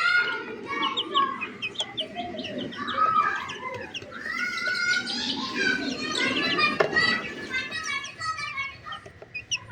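Chicks cheeping: many short, high-pitched peeps in quick succession, overlapping one another.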